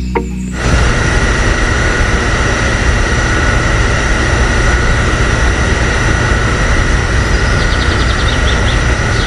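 A loud, steady, engine-like noise with a steady high whine over it. It starts about half a second in and cuts off suddenly at the end.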